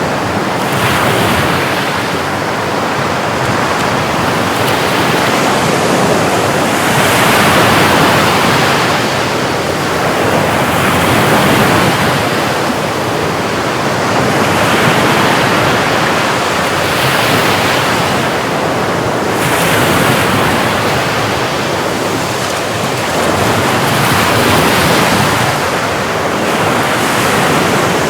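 Sea waves washing in and breaking, a steady surf rushing that swells and eases every few seconds, with some wind on the microphone.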